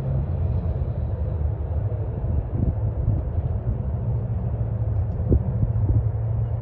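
A motor vehicle running: a steady, loud low rumble, with a few faint knocks in the middle.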